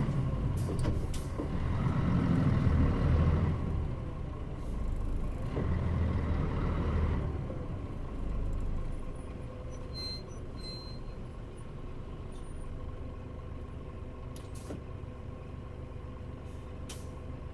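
Mitsubishi Fuso Aero Star bus (Nishinihon body, KL-MP35JM), heard from inside. The diesel engine pulls and eases off in waves for several seconds, then settles to a lower, steady idle. Short air-brake hisses come near the start and near the end, and a couple of brief high beeps sound about ten seconds in.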